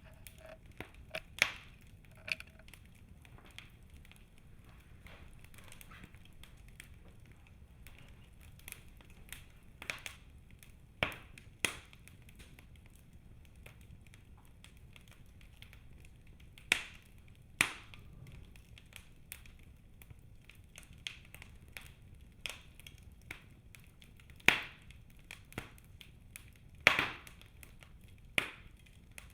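Birch logs burning in a fireplace, crackling with small irregular pops and about eight louder snaps scattered through, over a faint low rumble of the fire.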